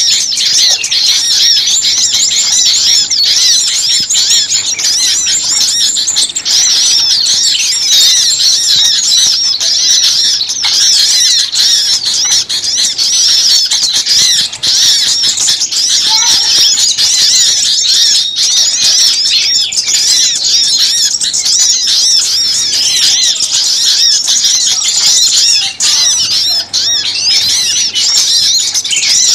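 A dense, noisy chorus of many small songbirds chirping and calling over one another without pause, many rapid high notes overlapping. It is a bird-lure recording of agitated small birds, meant to draw other small birds in.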